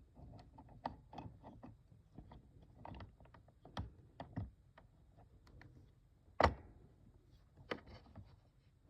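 Irregular small clicks and taps of plastic toy aquarium parts being handled while its gear rubber bands are worked on, with one louder knock about six and a half seconds in.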